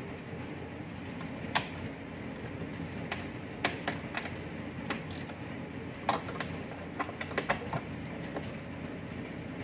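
Scattered clicks and knocks of small parts and hand tools being handled during fuel pump work, most of them clustered in the second half, over a steady low hum.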